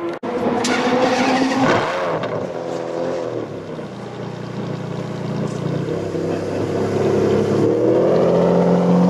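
Ferrari Enzo's V12 engine running close by. Its revs rise and fall briefly about a second and a half in, then it runs steadily at low revs. From about seven seconds in the revs climb and it gets louder as the car pulls off.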